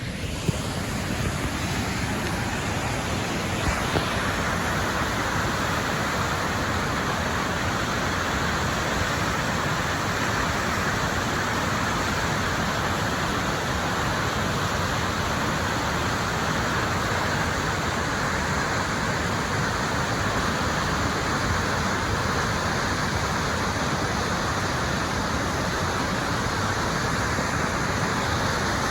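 Waterfall: a steady rush of falling water, which grows a little fuller about four seconds in.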